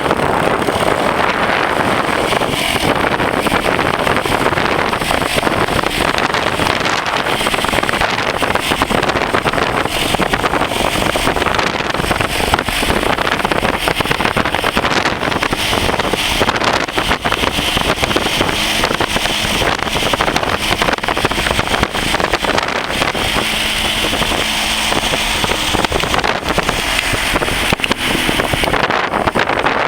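X18 super pocket bike engine running hard at full throttle on a top-speed run. Heavy wind noise on the microphone runs steadily under it.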